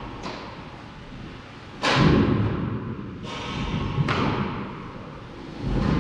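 A series of baseball impacts, each a sudden thud: the loudest about two seconds in, a sharper one about four seconds in, and another near the end.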